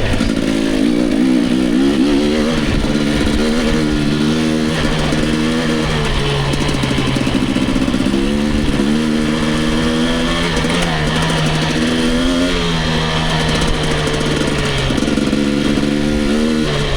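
Dirt bike engine being ridden hard along a trail, its revs climbing and dropping back again and again every couple of seconds.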